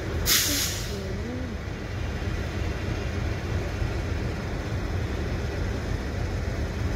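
Indian Railways passenger coaches rolling past slowly as the train departs, a steady low rumble of wheels on the track. About a quarter of a second in, a short loud hiss of escaping air lasts about half a second.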